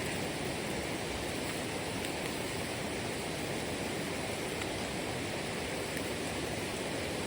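Running water rushing steadily, an even unbroken noise.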